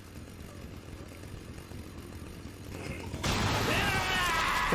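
Anime soundtrack: a low, dense crackling and crunching, then about three seconds in a sudden loud burst as a chainsaw engine starts and revs with a whine that rises and wavers.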